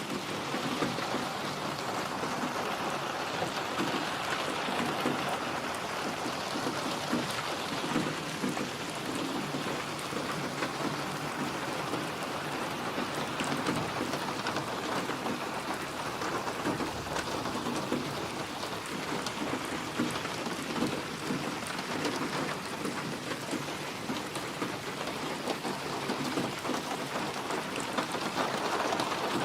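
Steady, dense rainfall pattering without a break, with a low rumble of thunder about midway.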